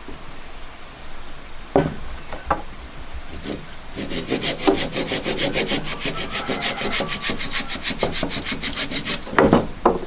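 A few knocks on wood, then a hand saw cutting wood in quick, even back-and-forth strokes, about six a second, for roughly five seconds. Near the end the sawing stops and is followed by a couple of thumps.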